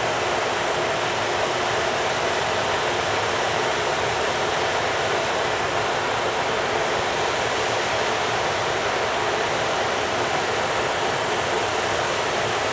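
Container freight train rolling past at steady speed: a continuous even noise of wheels on rail, with no separate wheel beats standing out.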